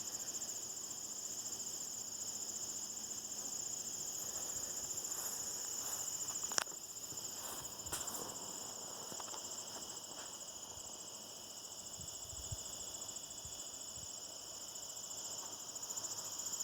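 A steady, high-pitched chorus of insects such as crickets, trilling continuously, with a couple of brief sharp clicks in the middle.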